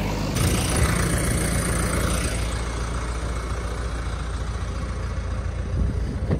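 SUV engine idling close by with a steady low rumble. A hiss lies over it from just after the start to about two and a half seconds in.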